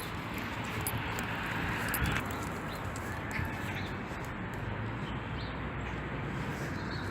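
Steady rain falling, with birds calling briefly now and then over it.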